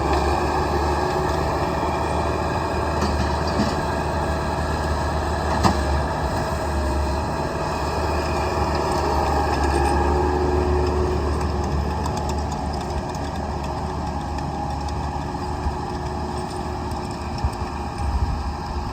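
A motor engine running steadily, with one sharp knock about five and a half seconds in.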